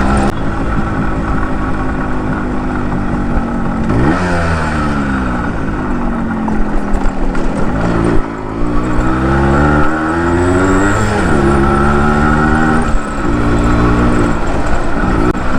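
Yamaha RX 100's two-stroke single-cylinder engine pulling along at road speed. Its note climbs and drops several times with throttle and gear changes.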